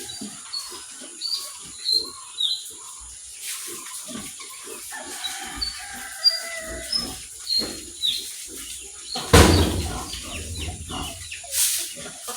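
Farmyard sounds: short high bird chirps repeated over and over, scattered low animal noises, and one loud sound about nine seconds in.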